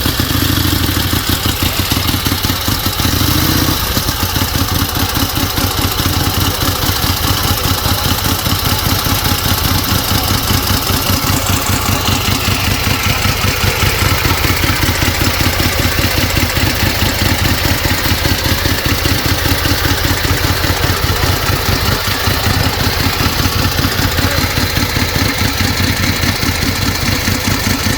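Motorcycle engine idling steadily with an even, pulsing beat.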